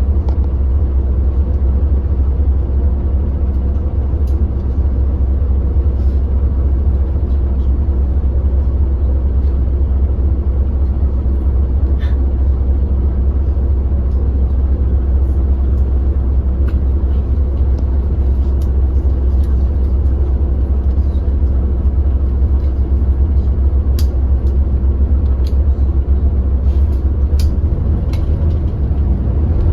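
Hyundai New Super Aero City CNG city bus engine running at a steady speed with a deep rumble, the pitch holding level without revving. A few faint clicks or rattles come through now and then.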